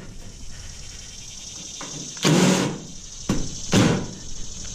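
Two short bursts of noise a little over a second apart, with a sharp knock between them, from work on a stainless steel steamer cabinet being taken apart.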